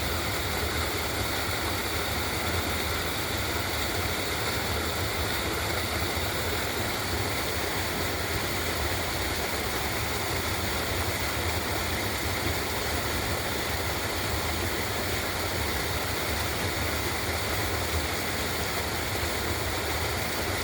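Steady rushing of running water, as from a creek or small waterfall, with an unbroken low rumble underneath.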